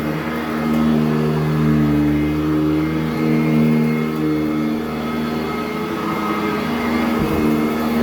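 Sanitaire SC899 commercial upright vacuum cleaner running on carpet, a steady motor hum whose pitch drifts slightly up and down.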